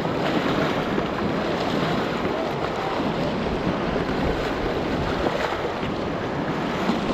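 Rushing white water of a Ganges river rapid around a raft, a steady rush of water with wind buffeting the microphone.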